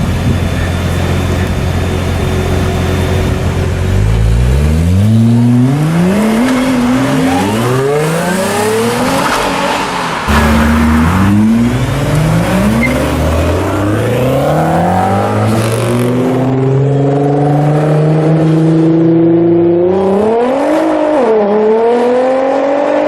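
Nissan GT-R engine idling, then from about four seconds in accelerating hard: the pitch climbs and falls back several times as it shifts up through the gears, then climbs slowly at a steadier pull, with a couple of quick revs near the end.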